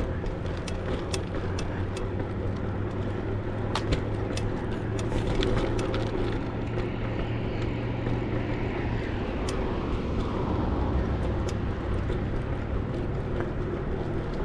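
Steady road traffic noise with engine hum, swelling about halfway through as a vehicle passes, and many short sharp clicks scattered throughout.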